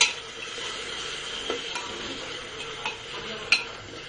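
Chopped tomatoes sizzling in hot oil on top of fried onion masala in a pressure-cooker pot, with a metal spoon stirring and clinking against the pot a few times, loudest at the start and about three and a half seconds in.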